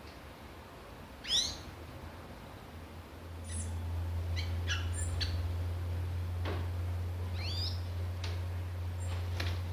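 Small birds chirping in short, quick, rising calls, with a cluster of brief chirps in the middle and a few sharp clicks. A low steady hum comes in about three seconds in and stays.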